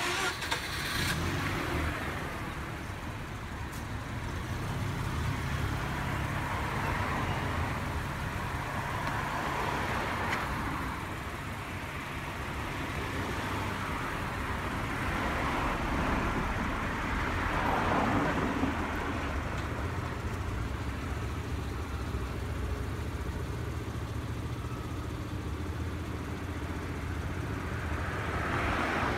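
Mazda RX-8's twin-rotor Renesis rotary engine idling steadily, with a few sharp clicks right at the start.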